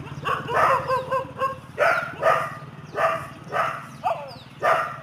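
Puppy whining and yipping in short, repeated cries, about nine in five seconds, some sliding up in pitch.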